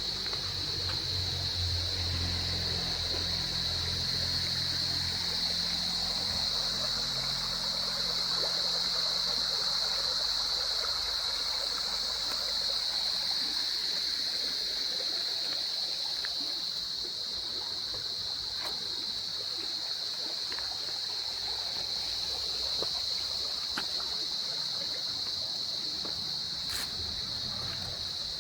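Stream water running and trickling between rocks, under a steady high-pitched drone of insects. A low rumble fades out in the first several seconds.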